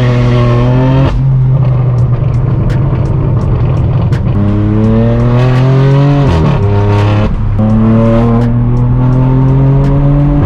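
Straight-piped BMW M4 F82 twin-turbo inline-six, loud, pulling through the gears. The pitch holds, climbs, drops sharply at a shift about a second in and again past six seconds, then climbs again.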